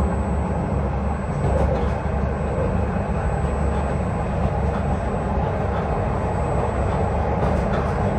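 Dubai Tram running on its rails, heard from inside the car: a steady low rumble.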